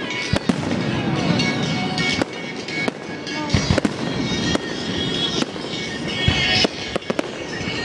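Fireworks show: a continual run of firework bangs, sometimes several in a second, over music playing alongside.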